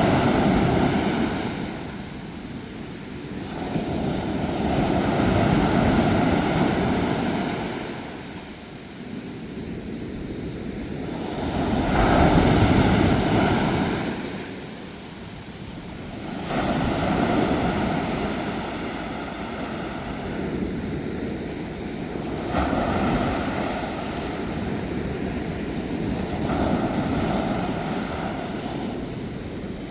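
Sea waves breaking and washing back in slow surges, one every four to six seconds, the loudest about twelve seconds in.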